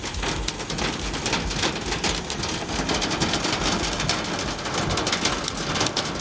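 Hailstones pelting a vehicle's body, a dense, continuous clatter of countless small hits.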